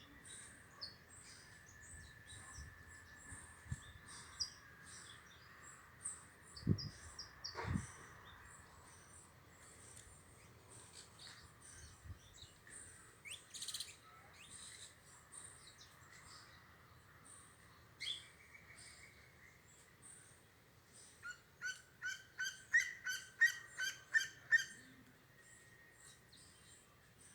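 Wild birds chirping and calling in a backyard, with many short scattered chirps. Near the end, one bird gives a fast run of about a dozen evenly spaced calls, about four a second, that grow louder. Two dull thumps come about seven seconds in.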